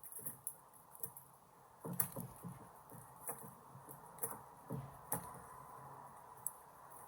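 A tool knocking and pressing against a small rubber eraser, with a few sharp knocks and clicks spread through and the loudest about two seconds in.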